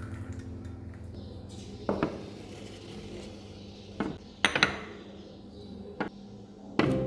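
Dishes and metal cutlery clinking and knocking in a kitchen: half a dozen separate sharp clinks, scattered irregularly, with quiet gaps between them.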